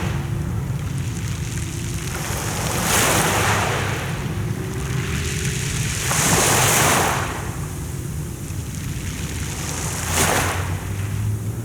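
Sea waves washing onto the shore in three rushes, each swelling and falling away about three and a half seconds apart, over a steady low rumble.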